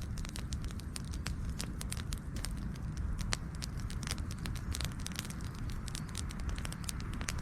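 Wood fire crackling: many sharp, irregular pops and snaps over a steady low rumble of flames.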